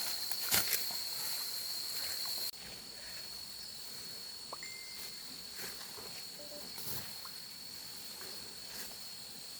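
Insects trilling, a steady high-pitched drone that runs on without a break. Near the start there are a couple of sharp knocks, and a little after two seconds in the whole sound drops abruptly in level.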